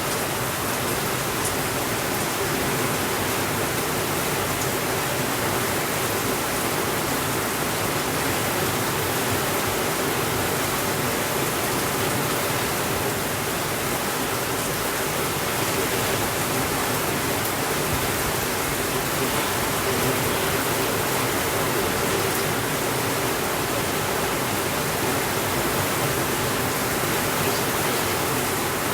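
Steady, even rainfall, a dense unbroken hiss with no thunder and only a few faint ticks.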